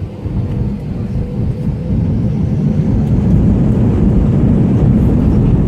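Steady low rumble inside a passenger plane's cabin with the engines running while the plane is still on the ground before takeoff, growing a little louder about two seconds in.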